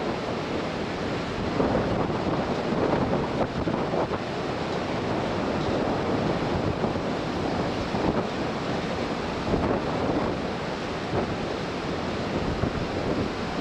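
Wind buffeting the microphone over the steady rush of sea water along a moving ship.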